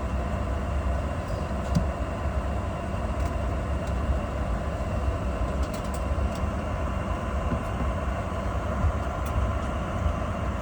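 Steady low rumble and hiss inside a Boeing 717-200 cabin before departure, the aircraft's air supply and systems running, with a few faint clicks.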